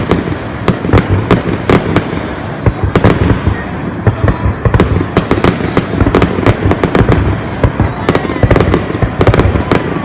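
Fireworks display: a dense, continuous barrage of bangs and crackles, many per second, over a low rumble, with faint rising whistles of shells going up.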